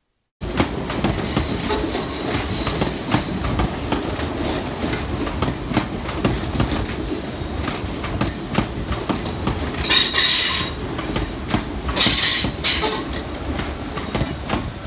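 London Northwestern Railway electric multiple unit passing close by: steady wheel-on-rail rumble with rapid clicking, and high-pitched wheel squeal, faint about a second in and loud in two short bursts around ten and twelve seconds in.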